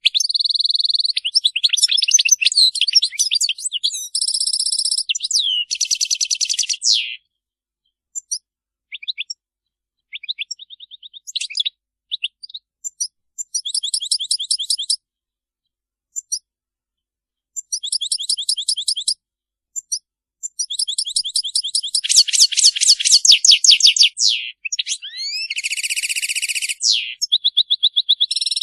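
European goldfinches singing: fast twittering trills and buzzy notes, all high-pitched. The song runs in dense bursts at first, thins to scattered short phrases through the middle, and comes back as a dense, loud run near the end.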